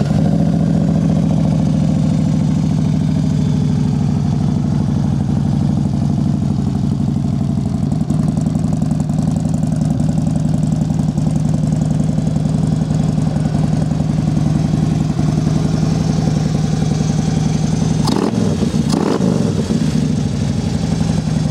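2012 Harley-Davidson Street Glide's 103 cubic-inch V-twin idling steadily through a 2-into-1 aftermarket exhaust, with an even, loping beat. Near the end two brief swooping sounds pass over the idle.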